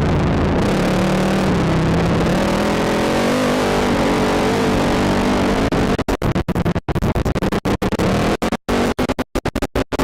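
ATV engine running and revving, its pitch rising and falling. From about six seconds in, the sound is chopped by rapid dropouts into silence, a stutter or scratch edit, with music mixed in.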